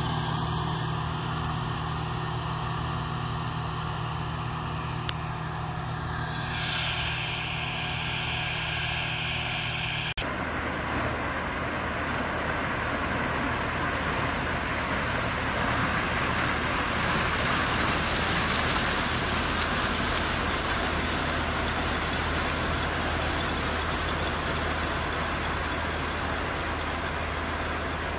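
New Holland 8080 combine harvester running steadily in corn, its engine giving an even hum. About ten seconds in the sound breaks off with a click and gives way to a fuller, noisier machine sound.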